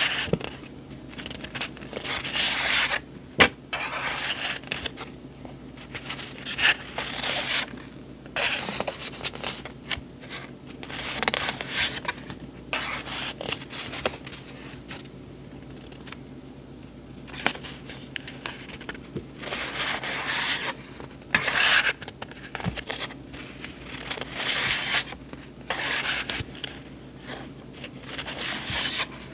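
Sheets of paper being handled, with irregular rustling and sliding swishes, and a single sharp click about three and a half seconds in.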